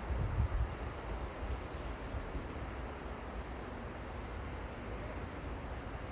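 River water running steadily, with wind buffeting the microphone in low, uneven gusts.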